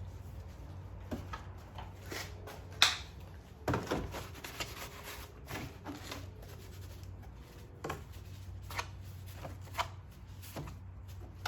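Scattered clicks and knocks of engine-bay parts being handled and refitted by hand, the loudest a sharp knock about three seconds in, over a low steady hum.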